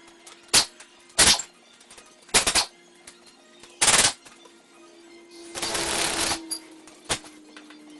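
Pneumatic impact wrench run in six short rattling bursts, one longer near the middle, loosening fasteners while the clutch is taken off the engine.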